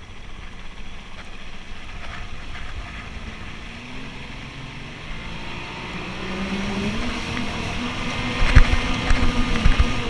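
Small boat's outboard motor running and growing louder from about four seconds in. Gusts buffet the microphone heavily in the last couple of seconds.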